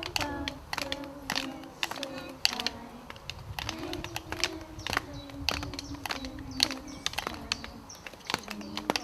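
Children tapping out an irregular drumming rhythm, with quick sharp taps several a second and quiet children's voices underneath.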